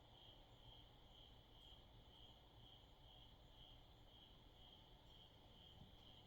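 Near silence: faint room tone with a low steady hum and a soft, high-pitched chirp pulsing evenly about twice a second.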